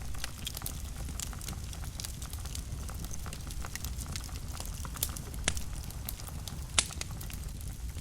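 Wood fire burning in a fireplace: a steady low rumble of flames with frequent small crackles, and two louder pops, one about five and a half seconds in and one near the end.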